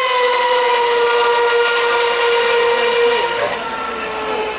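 Formula One car's 2.4-litre V8 engine at high revs, its whining note easing down in pitch and then holding steady, dropping a little and getting quieter about three seconds in.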